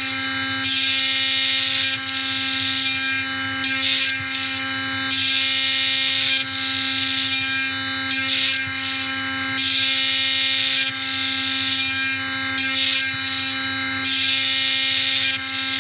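CNC machining centre milling a brass part: a steady spindle whine with a high cutting sound that swells and eases every second or two as the tool works.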